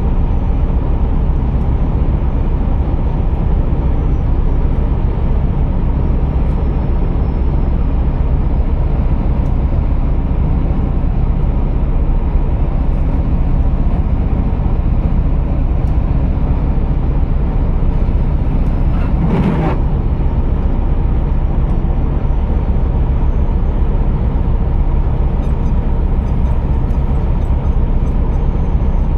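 Scania R480 truck's inline-six diesel engine droning steadily with road noise, heard from inside the cab while driving. There is one brief knock about two-thirds of the way through.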